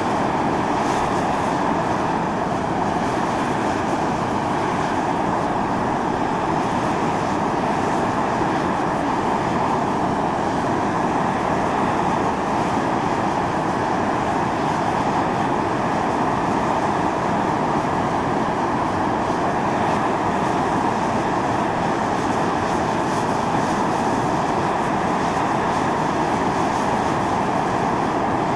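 Volcanic fumarole vents on Mt. Io (Atosanupuri) hissing steadily as steam and sulphurous gas jet out, a loud, even rushing noise.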